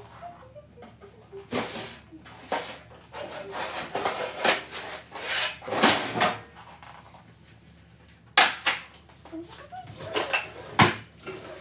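Kitchen clatter: cookware and utensils being handled, a series of sharp knocks and clacks with some scraping between them, the sharpest knocks a little past halfway and again near the end.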